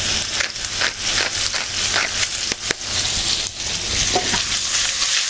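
Sliced mushrooms sizzling in hot oil in a stainless steel wok over a gas flame: a steady hiss with frequent small crackles and spits.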